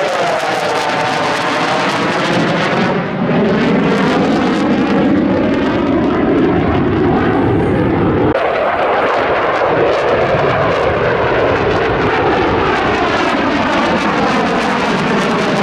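RF-4 Phantom jet flying past, its twin J79 turbojets giving a loud, steady jet noise with a sweeping, phasing sound. About eight seconds in, the deepest part of the noise drops away suddenly.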